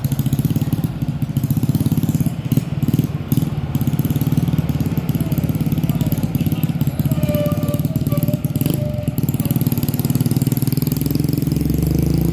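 Heavy diesel truck engine running steadily at low revs with a pulsing low rumble, the revs rising near the end.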